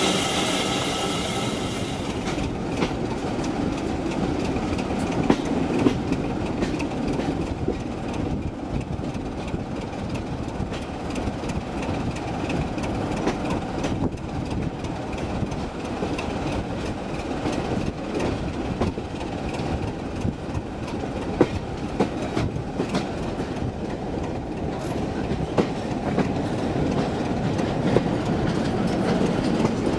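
A heritage passenger coach running along the line, heard from its open window: a steady rumble of wheels on track with a sharp click over a rail joint every few seconds. A high ringing fades out about two seconds in.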